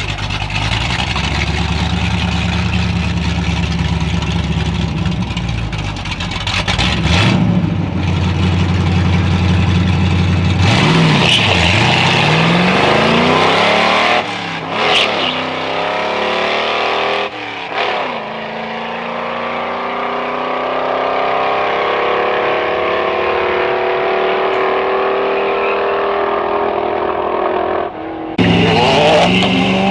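A drag-racing car's engine running steadily, then accelerating hard down the strip, its pitch climbing and dropping back twice at gear shifts before a long rising pull. The sound cuts off abruptly near the end.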